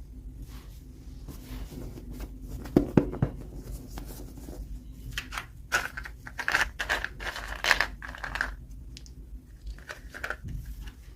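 Toy packaging being handled and opened: a couple of sharp clicks about three seconds in, then a run of crinkling and tearing from about five to eight and a half seconds in.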